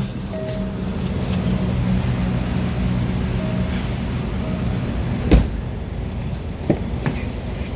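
Range Rover Evoque 2.0 engine idling steadily, with a few short chime-like beeps in the first half. A sharp knock comes about five seconds in, followed by two lighter clicks.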